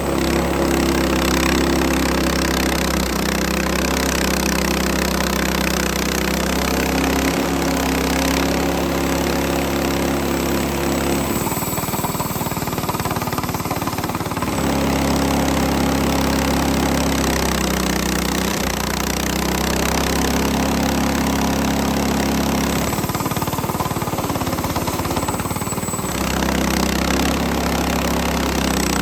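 Portable bandsaw mill's small engine running steadily under load as the blade cuts through a hard black walnut log, its pitch shifting every few seconds.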